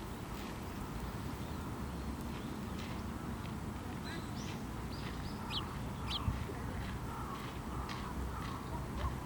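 Small songbirds chirping, with short high notes scattered throughout and a run of quick, repeated calls from about four seconds in, over a steady low rumble.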